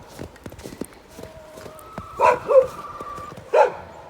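A dog barking three short times, two close together and a third about a second later.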